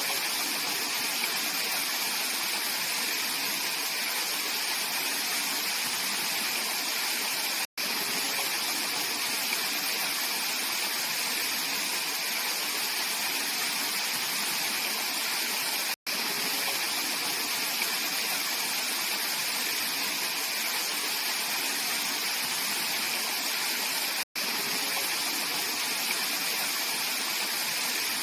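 Mountain valley stream water flowing steadily. The sound cuts out for an instant about every eight seconds.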